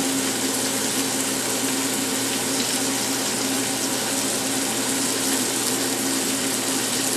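Liver sautéing in butter in a hot pan, a steady sizzle, with a fan's steady hum underneath.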